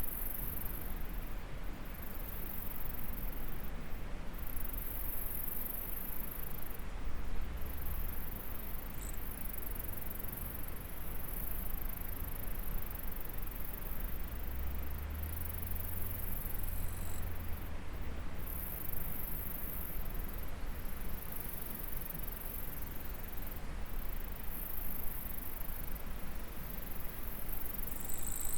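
High-pitched trilling of insects, a continuous chorus that breaks off briefly every second or two, over the steady rush of flowing stream water.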